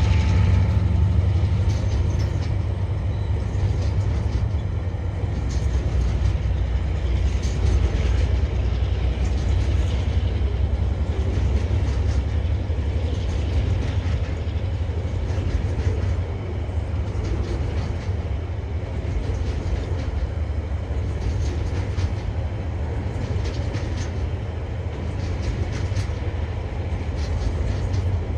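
Freight wagons of a TasRail train rolling past: a steady low rumble with irregular wheel clicks and knocks over the rail joints.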